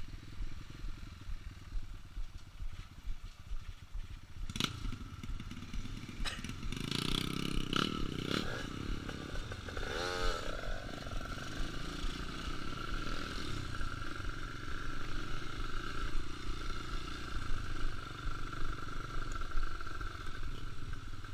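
Trail motorcycle engine running on an off-road track. Knocks and clattering come about five to eight seconds in, then a quick rev about ten seconds in, after which the engine holds a steady note.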